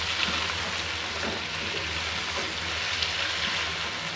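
Chicken pieces and browned onions sizzling in hot oil in an aluminium pan as a spatula stirs them, with a few short taps and scrapes of the spatula against the pan.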